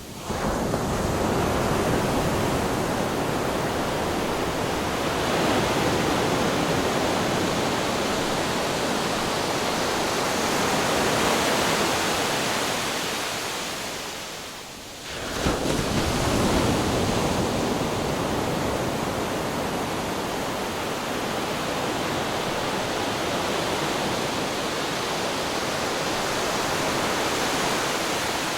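Ocean waves crashing on rocks: a continuous wash of surf that surges in suddenly at the start, eases off briefly about 14 seconds in, then surges again.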